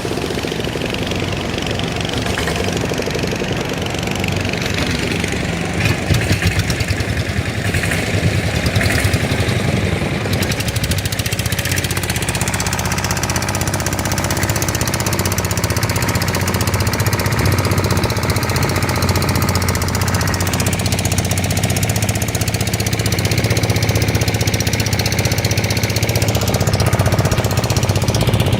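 Motorboat engine running steadily with a rapid chugging beat.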